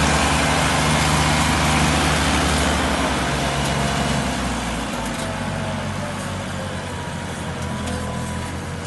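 Heavy farm machine engine running, a steady low rumble that changes its note about four to five seconds in and then grows gradually quieter.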